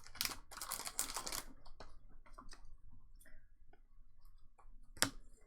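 Trading cards being handled and flipped through by hand: a short burst of papery rustling, then scattered light clicks and taps, with a sharper click near the end.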